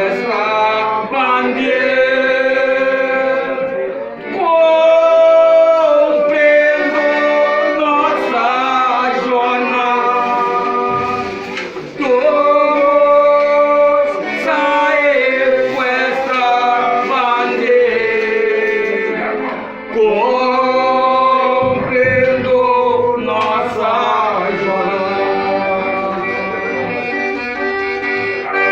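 A folia group's voices singing long held notes in layered harmony, with instruments underneath. The song runs in drawn-out phrases several seconds long, with brief breaks about 4, 12 and 20 seconds in.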